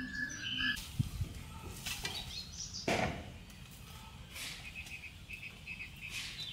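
Small birds chirping outdoors in short high chirps, with a quick string of them over the last second or so. A few sharp knocks sound about one and three seconds in, the second one the loudest.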